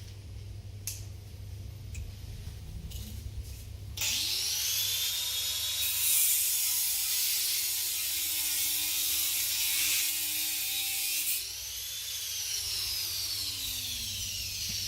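A high-speed power tool starts about four seconds in with a sudden rising whine, runs steadily for about seven seconds, then is let off and winds down with a falling whine. A few light clicks come before it starts.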